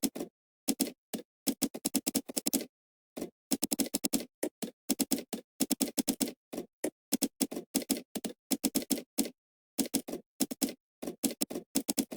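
Computer keyboard typing in quick bursts of keystrokes, several runs of rapid clicks broken by short pauses, with dead silence between bursts.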